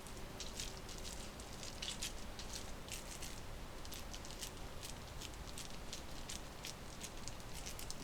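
Wood fire crackling, with irregular sharp pops and snaps a few times a second.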